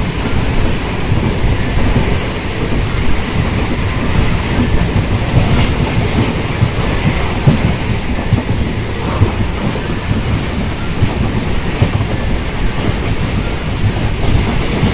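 Khajuraho Express passenger train running, heard from on board: a steady low rumble with the clack of wheels over rail joints.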